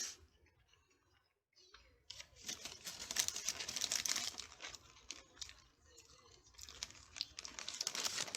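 Paper food wrapper crinkling and rustling as the burger is handled, with a short click at the start. The crinkling is densest for a few seconds, then thins to scattered crackles.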